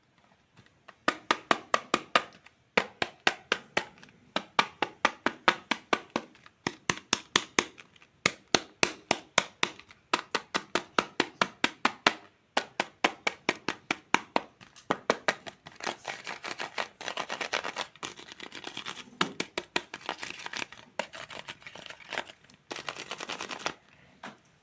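Toy fruit being cut with a toy knife: runs of sharp, rapid clicks and taps, several a second. In the last third they give way to denser crunchy scraping.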